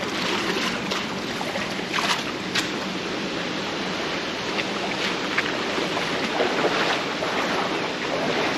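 Wading through an ankle-deep stream: splashes from the steps, a few sharper ones about two seconds in, over the steady rush of flowing water.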